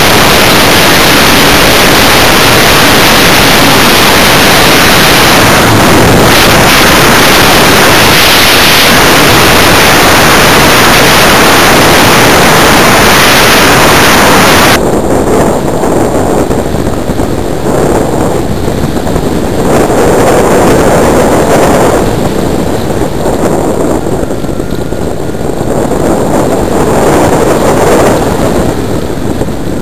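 Onboard sound of the Simprop Hurricane electric RC glider in flight: a loud, steady rush of motor, propeller and wind, which drops off suddenly about halfway through when the motor is cut. After that only wind noise over the airframe remains, swelling and fading as the glider flies.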